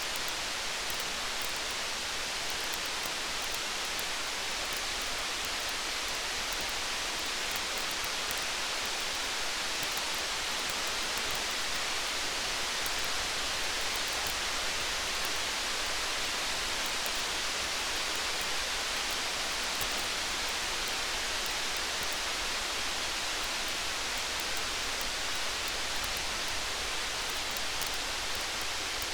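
Steady rain: an even, unbroken hiss, with scattered faint ticks.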